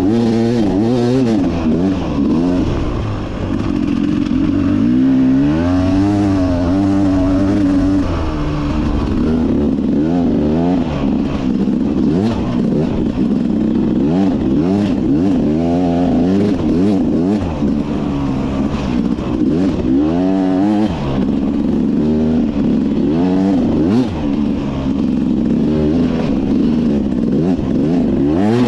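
Beta 300 RR two-stroke dirt bike engine revving up and down over and over as it is ridden on the trail, its pitch climbing and dropping every second or two, with some rattling knocks.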